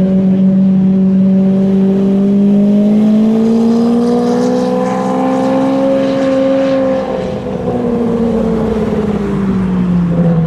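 Lamborghini Murciélago V12 engine running at low revs as the car drives slowly past; its steady note rises slightly and then drops after about seven seconds as the car goes by and moves away.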